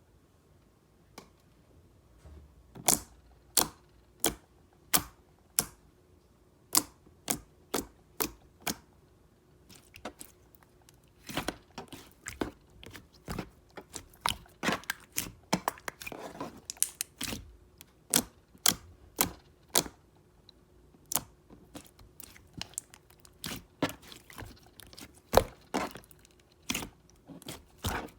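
Slime being pressed and worked by hand, giving a series of sharp clicks and pops: a few spaced ones at first, then one or two a second from about ten seconds in.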